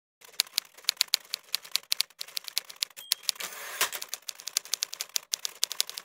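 Typewriter sound effect: rapid, uneven clacking of typewriter keys striking, with brief pauses between runs of letters, timed to on-screen text typing on.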